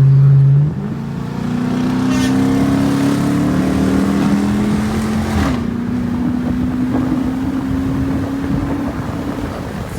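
Exhaust of a 2012 Dodge Charger R/T's 5.7 HEMI V8, straight-piped with the resonator and mid-muffler deleted and the catalytic converters kept, heard while driving. A loud steady note cuts back under a second in, then the engine note climbs slowly, jumps up a little about five and a half seconds in, and holds steady.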